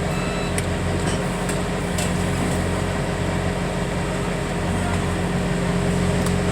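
Engine of the loading machine running steadily at a constant speed, with a steady whine held on one pitch and a few faint clicks.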